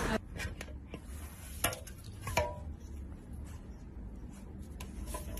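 Quiet, scattered light clicks and taps, a little louder twice about two seconds in, over a low steady hum.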